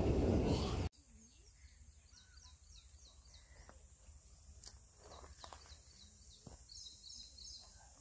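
A bird calling a quick series of short, high, falling chirps, then a brief rapid trill near the end, over quiet rural ambience. The first second is a loud rushing noise that cuts off suddenly.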